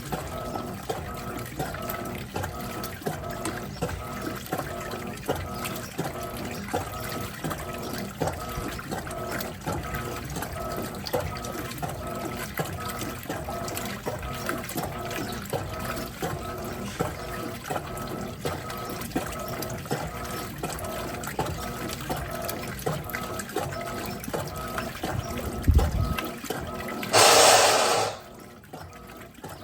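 Electrolux Turbo Capacidade 15 kg top-loading washing machine in its fabric-softener soak stage: water sloshing in the tub with a regular, even pulse. Near the end a thump, then a loud rush of about a second, after which it goes quieter.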